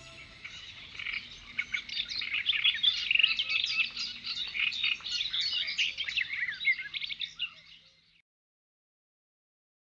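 A chorus of many small birds chirping and twittering, fading out about eight seconds in, then silence.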